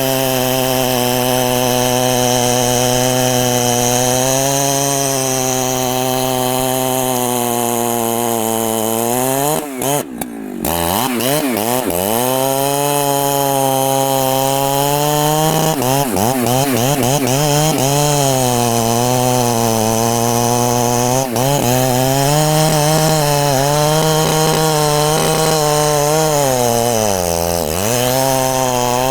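Large Husqvarna two-stroke chainsaw running at high revs while cutting wood, its engine note sagging and recovering as the bar loads in the cut. There is a brief break with a quick drop and rise in pitch about ten seconds in, and another dip in pitch near the end.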